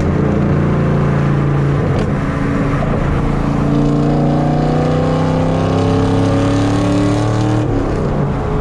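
Fifth-generation Camaro SS LS3 V8 with long-tube headers, its loud exhaust note climbing steadily in pitch as the car accelerates, then dropping sharply near the end as the revs fall.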